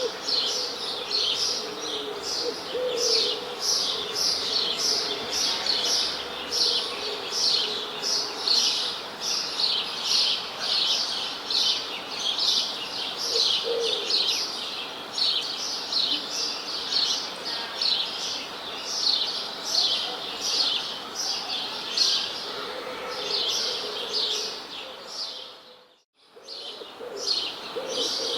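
A chorus of small songbirds chirping densely and without a break, with a dove cooing low a few times. The whole sound fades out briefly and comes straight back near the end.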